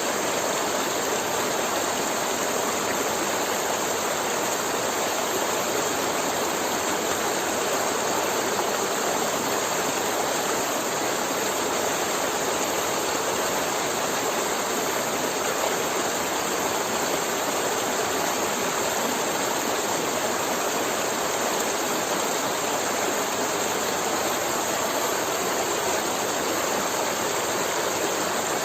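Forest river flowing steadily, an even rushing of water with a gurgling babble.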